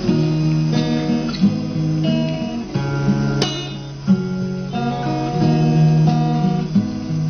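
Instrumental music led by an acoustic guitar playing chords, with no singing.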